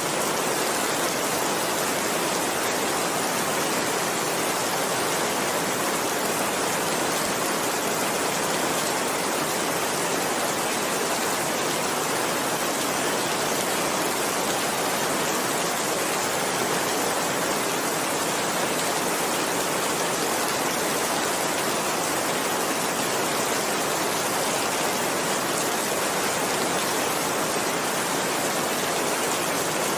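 Heavy rain falling steadily, a dense, even hiss of countless drops with no breaks or thunder.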